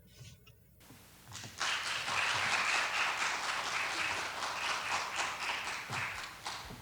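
Applause of hand claps, starting about a second and a half in and dying away near the end.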